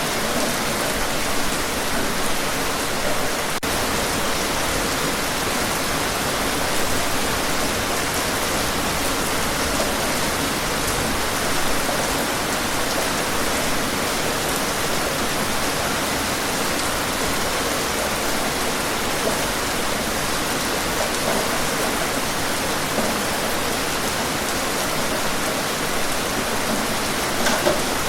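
Steady heavy rain, an even dense hiss with small spatters, without a clear thunderclap.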